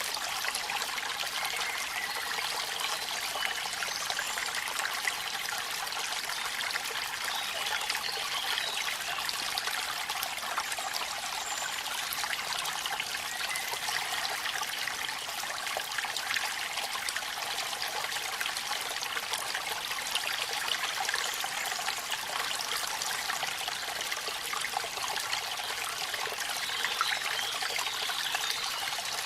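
Waterfall splashing steadily: an even rush of falling water, thick with small splashes and trickles, without a pause.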